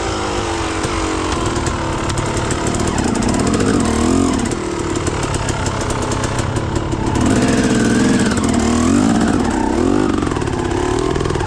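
ATV engine revving up and down again and again, its pitch rising and falling, as the quad is worked against deep mud to get unstuck. The revving grows louder in the second half.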